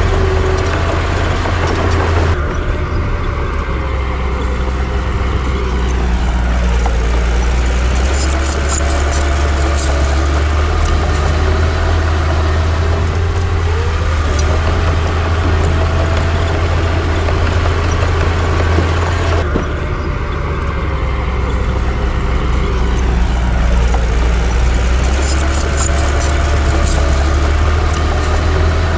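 Diesel engine of a Komatsu D60 crawler bulldozer running steadily with a strong low hum, its pitch rising and falling a few times as it works, with scattered clicking.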